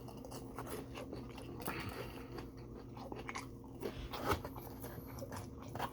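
A person biting and chewing crunchy curly fries close to the microphone, with irregular wet crunches and clicks. A steady low hum runs underneath.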